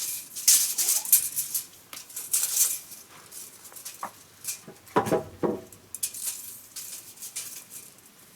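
Rustling and scraping noises in quick irregular strokes, with a short animal cry falling in pitch about five seconds in.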